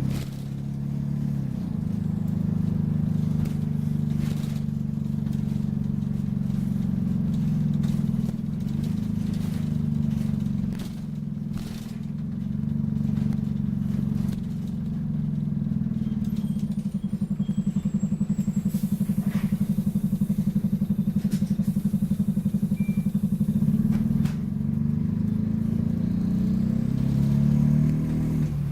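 Optare Solo single-deck bus's diesel engine running under way, its note rising and falling as the bus pulls and eases off, with clicks and rattles from the bodywork. For several seconds in the middle the engine note settles into a steady rapid pulsing.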